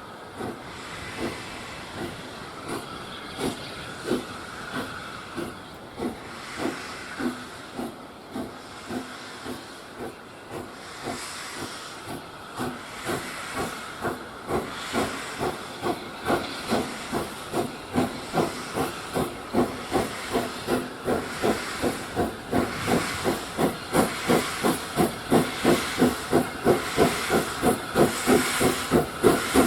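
Steam locomotive working a train, its exhaust beats quickening and growing steadily louder, over a steady hiss of steam.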